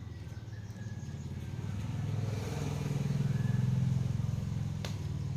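An engine running steadily at low speed, growing louder toward the middle.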